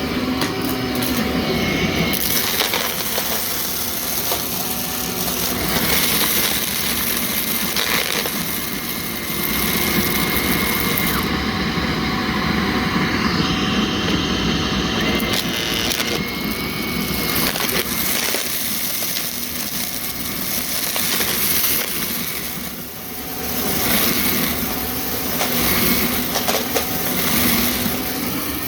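Vacuum cleaner running while vacuuming, a steady loud motor sound that shifts as the machine is moved, with a brief dip in level near the end.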